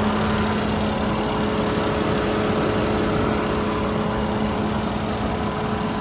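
2020 Mercedes-Benz E450 Cabriolet's engine idling steadily and very quietly, an even hum that does not change.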